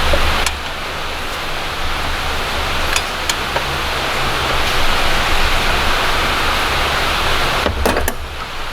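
Steady rushing noise with a low hum, and a few sharp metallic clicks from hand tools on the engine: about half a second in, twice around three seconds, and a quick cluster near the end.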